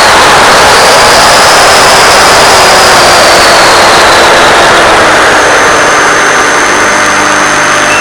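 Finwing Penguin model plane's electric motor and propeller in flight: a loud, steady rush of air noise with a faint whine that slowly drifts in pitch.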